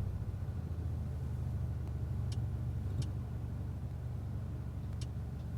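Mercedes-AMG A35's 2.0-litre turbocharged four-cylinder engine idling steadily, heard from inside the cabin, its idle raised with Dynamic mode selected. A few faint clicks are heard.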